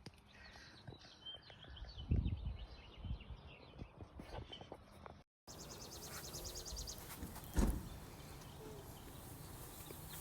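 Faint outdoor background with birds chirping, broken by a short gap about halfway through; later a single sharp knock.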